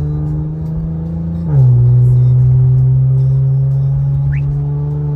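Infiniti Q50's 3.0-litre twin-turbo V6 droning steadily at highway speed, heard inside the cabin. About a second and a half in, its pitch drops suddenly and it gets louder, then the drone slowly eases lower. A short rising chirp comes near the end.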